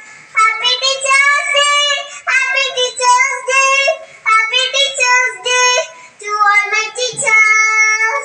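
A child singing a song alone, in short phrases with brief breaks and a long held note near the end.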